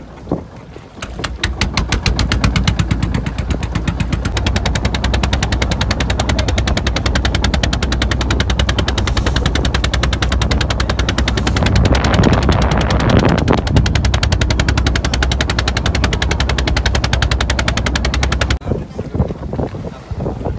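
An unmuffled boat diesel engine running close by, making a fast, even chain of sharp knocks over a low steady drone. It starts about a second in and cuts off abruptly near the end.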